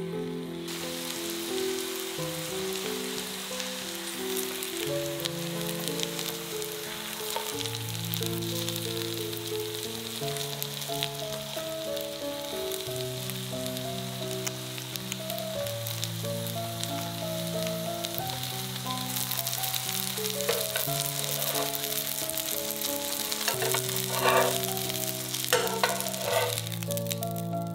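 Food sizzling as it fries in a pan, a steady hiss that starts about a second in, with a few sharp clicks near the end. Background music plays throughout.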